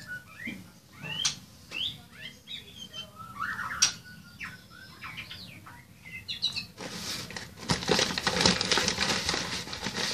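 Small birds chirping in short rising and falling calls. About two-thirds of the way in, a louder, dense crackly noise takes over.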